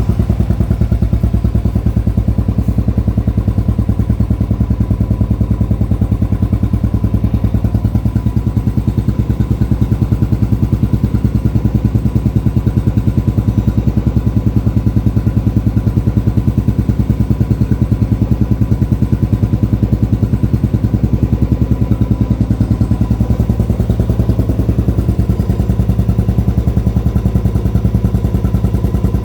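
Royal Enfield 350's single-cylinder engine running steadily through a peashooter exhaust, giving an even, rhythmic thump.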